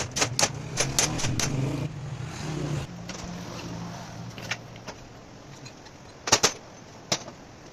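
Car sound: a low steady hum with a series of sharp clicks and knocks over the first three seconds, then quieter, with a few more sharp clicks about six and seven seconds in.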